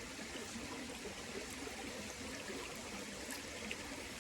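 River water running steadily, a constant even rush.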